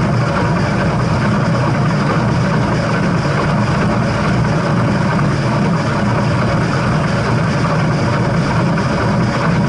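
Train running, a steady loud rumble with no breaks.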